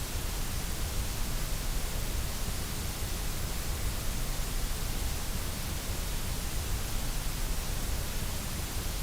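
Steady, unchanging electronic noise: an even hiss spread across all pitches, with no breaks or changes.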